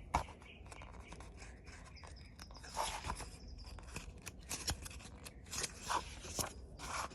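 Pages of a glossy magazine being handled and turned: a series of short papery swishes and rustles, the strongest about three seconds in and several quicker ones near the end.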